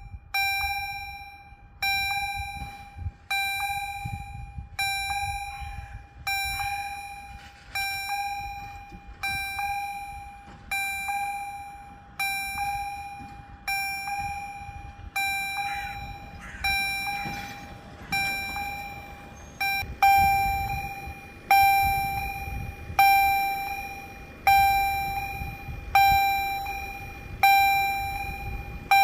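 Electronic level-crossing warning bell (EHL-S10) striking evenly, about one ding every second and a half, each ringing out and fading. It is the crossing's warning that a train is approaching.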